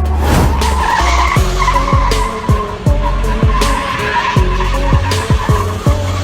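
Car tyres squealing in a long, wavering skid over a music track with a heavy bass beat.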